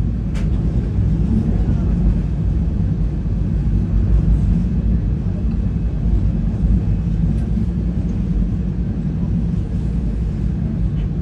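Steady low rumble of a moving passenger train car, heard from inside the dome observation car: wheels running on the rails and the car's running noise.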